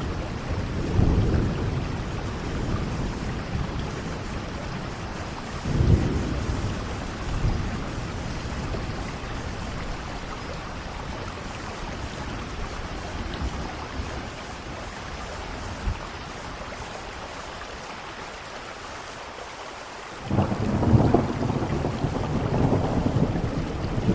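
Steady rain with rolling thunder: low rumbles swell about a second in and again around six seconds, the rain alone settles quieter, then a louder peal of thunder breaks in suddenly near the end and keeps rumbling.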